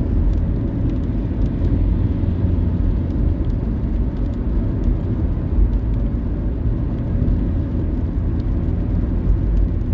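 Car driving at speed, a steady low rumble of tyres and engine heard from inside the cabin, with a few faint ticks.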